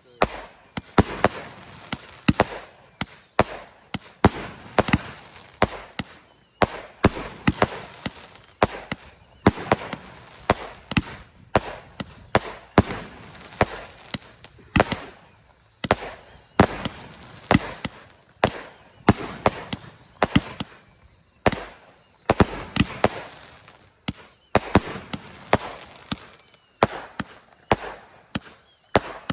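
Fireworks display: a steady string of loud bangs, one to two a second, with a whistle that falls in pitch repeating about once a second.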